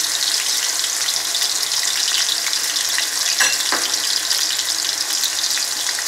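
Diced raw potatoes sizzling steadily in hot cooking oil in a steel karahi, freshly put in to fry. Two brief clicks come a little past halfway.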